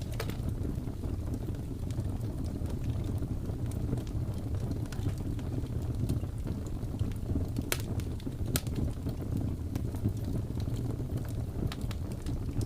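Wood fire crackling in a fireplace: scattered sharp pops and snaps, two louder ones a little past halfway, over a steady low rumble of blizzard wind.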